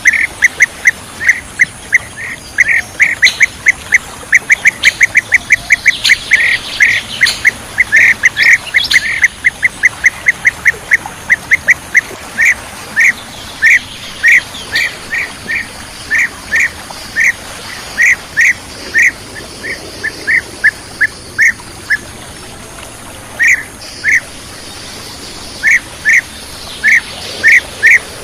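Bee-eater (kirik-kirik) calls: short, clipped notes repeated in a fast run of several a second, then thinning after about twelve seconds to spaced single and paired notes, with a pause of a couple of seconds shortly past the twenty-second mark.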